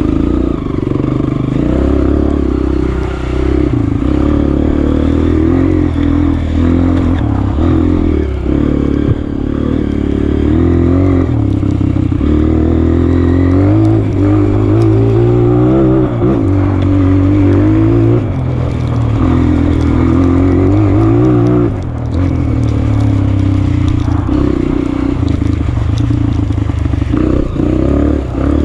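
Honda CRF230F trail bike's air-cooled single-cylinder four-stroke engine under way, its pitch rising and falling again and again as the throttle is worked.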